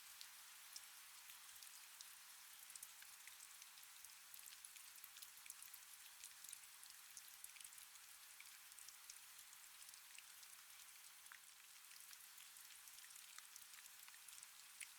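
Quiet, steady rain: an even hiss scattered with many small drop ticks.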